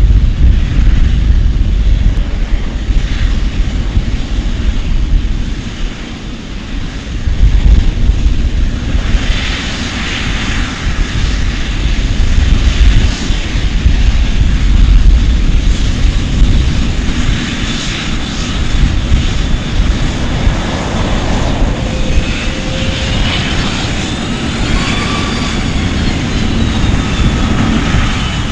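An airplane's engines running: a steady low rumble that swells about nine seconds in, with a whine that rises and then falls in pitch near the end.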